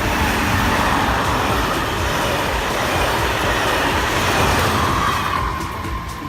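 A train passing at speed: a loud, steady rush of wheel and rail noise that fades near the end.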